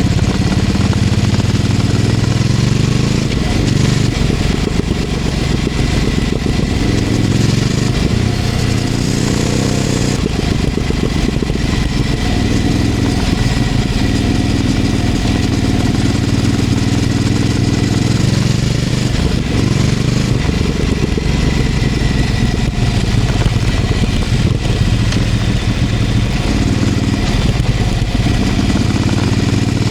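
Ducati Scrambler 800's air-cooled L-twin through a LeoVince LV-10 exhaust, under way. Its pitch rises and falls several times as the rider accelerates and rolls off the throttle.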